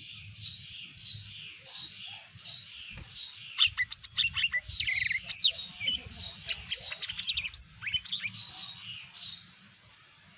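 A cucak ijo mini (green leafbird) singing: a steady series of repeated falling whistled notes, then from a few seconds in a louder, rapid run of varied sharp chirps and trills, stopping about a second before the end.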